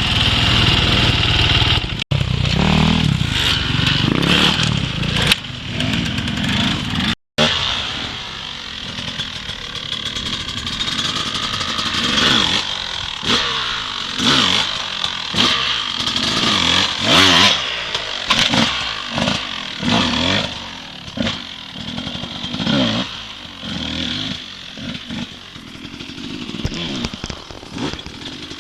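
Dirt bike engine revving in repeated short throttle blips, the pitch rising and falling again and again. The sound cuts out completely twice in the first eight seconds.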